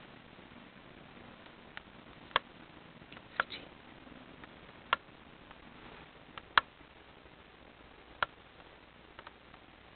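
A series of sharp, isolated clicks or taps, about one every second or two, the loudest near the middle, over a faint room background.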